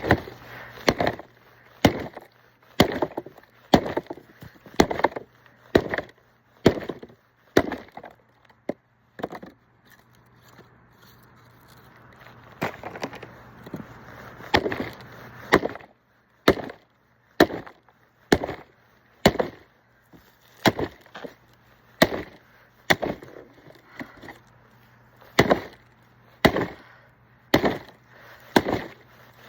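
Axe strikes splitting firewood, a sharp chop about once a second, pausing for a few seconds about a third of the way in.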